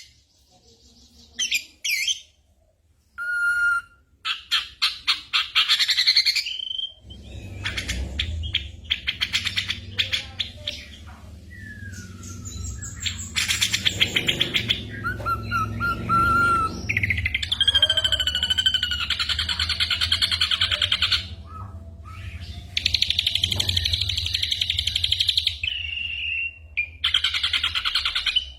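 Ashy drongo singing a varied song of rapid trills, quick chattering runs and whistled notes that glide or hold steady, with short pauses between phrases. The song mixes in mimicked calls of other birds.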